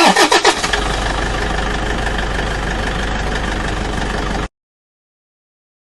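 Car engine starting: the starter cranks in quick strokes for under a second, then the engine catches and runs steadily before cutting off suddenly about four and a half seconds in.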